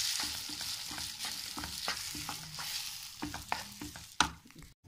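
Soaked sabudana (sago pearls) sizzling in ghee in a kadhai while a wooden spatula stirs and roasts it, with a steady frying hiss and frequent light taps and scrapes of the spatula against the pan.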